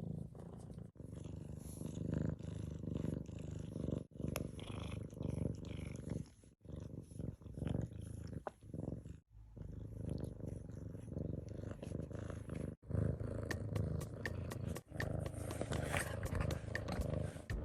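Siamese cat purring steadily, close up, in several short stretches that cut off abruptly and pick up again.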